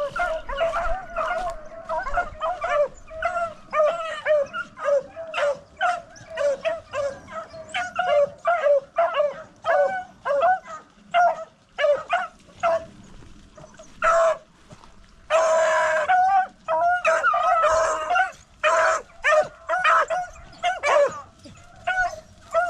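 A pack of rabbit-hunting beagles baying in chase, many short overlapping calls at a quick pace, with a louder, longer call around the middle. The hounds are giving tongue as they run a rabbit's trail.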